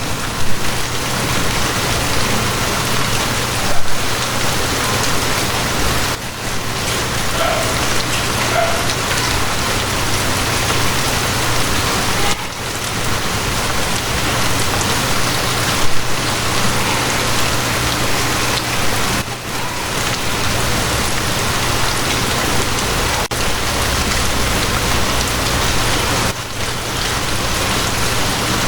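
Steady heavy rain falling on surfaces, an even hiss with a few louder drops standing out.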